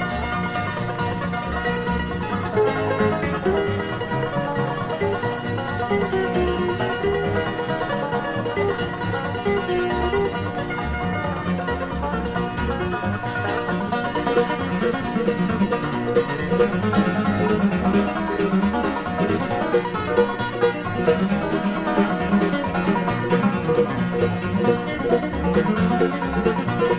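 Instrumental break of a bluegrass band: picked banjo, mandolin and guitar over bass, with no singing.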